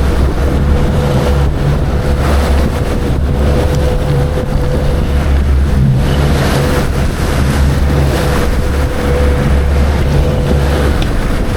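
Boat motor running steadily with a thin, constant whine over a low hum, mixed with the rush of wind and water.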